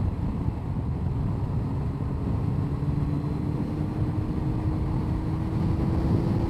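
2002 Honda CBR1100XX Blackbird's inline-four engine running at cruising speed, its note rising slowly as the bike gains speed, over a steady low rush of wind and road noise.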